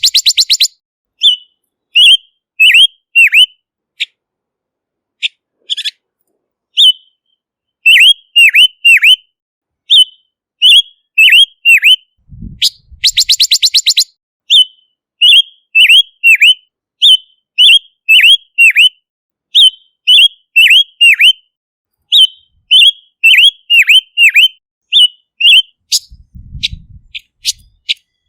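Silver-eared mesia singing: runs of short, clear whistled notes that slur downward. About halfway through comes a single burst of rapid buzzy chatter.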